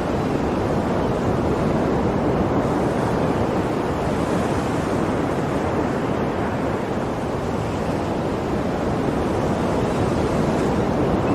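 Sea waves on a shore: a steady rush of surf that swells a little now and then.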